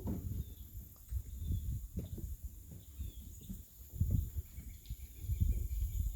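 Outdoor nature ambience: uneven low rumbling with soft thumps, a faint steady high hum typical of insects, and a few faint short bird chirps.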